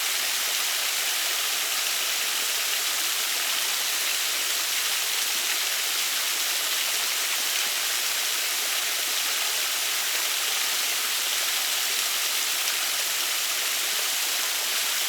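Waterfall and rushing stream water, a steady hiss.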